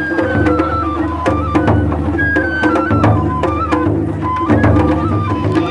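Japanese festival music (matsuri-bayashi): a high bamboo flute plays a stepping melody over taiko drums beating steadily.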